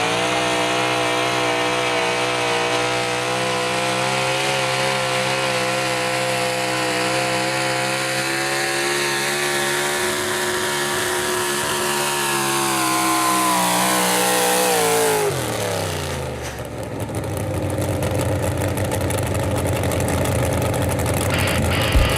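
Super Stock two-wheel-drive pulling truck's engine held at high, nearly steady revs under load for about fifteen seconds, then the revs fall away sharply as the pull ends, leaving a lower rumble.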